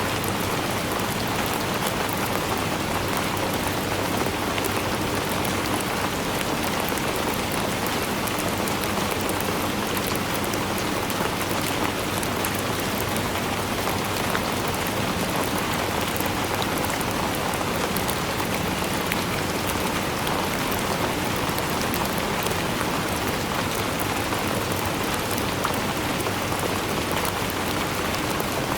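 Steady rainfall pattering on surfaces, an even hiss dense with small drop ticks.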